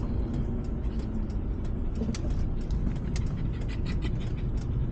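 Steady low rumble of a car driving slowly, heard from inside the cabin, with many short sharp ticks and taps scattered through it.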